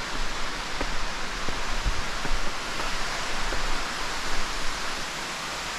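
Steady rushing hiss of an underground waterfall in a large cave chamber, with a few faint clicks scattered through it.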